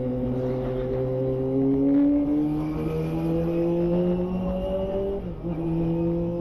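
Kawasaki ZX-25R's inline-four engine through a Yoshimura Alpha exhaust under way, its pitch climbing steadily as the bike accelerates, with a short dip about five seconds in like a gear change.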